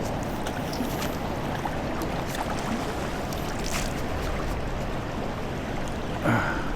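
Steady rush of flowing river water. A brief, louder sound cuts in near the end.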